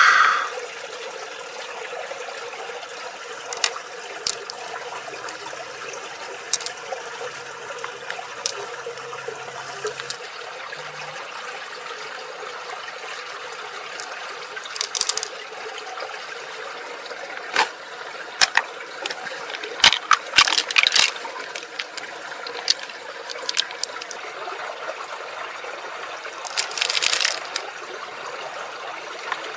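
Water trickling and splashing, with scattered sharp clicks throughout and a few short louder splashes about fifteen seconds in, around twenty seconds in, and near the end.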